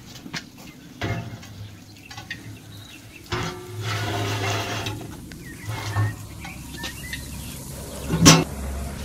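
Metal baking tray scraping and clattering as it is slid onto the rack of a brick oven, then the oven's metal door shut with one sharp clank about eight seconds in.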